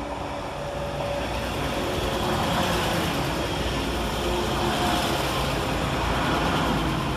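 Northern Class 195 diesel multiple unit running through the station. Its engine and wheel rumble grows louder over the first couple of seconds, holds, then begins to fade near the end as it passes.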